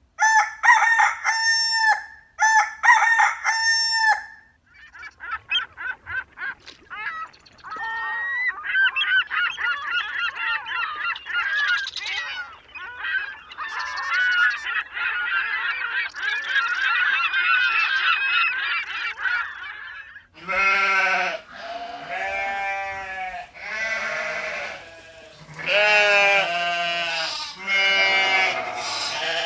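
Dubbed-in farm-animal sound effects. The first few seconds bring short repeated honking calls. A long stretch of dense, overlapping flock chatter follows, and lower, wavering, drawn-out calls take over about two-thirds of the way through.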